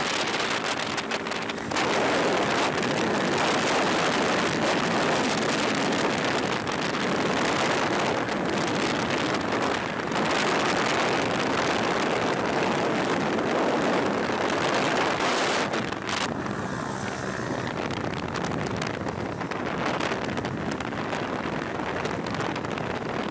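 Wind rushing over the microphone while riding a motorcycle, with the engine heard underneath. Its pitched note shows more clearly about a second in and again about two-thirds of the way through.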